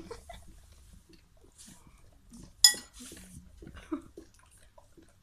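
A dog eating breakfast, with scattered small mouth and food noises and a single sharp clink of a utensil against a dish about two and a half seconds in.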